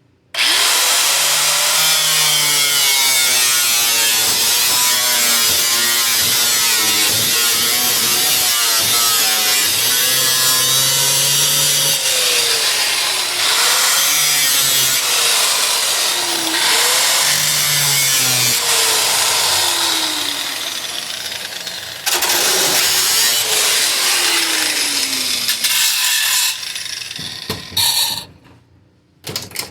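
Power tool cutting through the rusted sheet-metal floor of a 1980 Jeep CJ7. It runs loud and harsh, its pitch sagging and recovering again and again as the cut loads it. It starts about half a second in and stops and restarts a few times near the end.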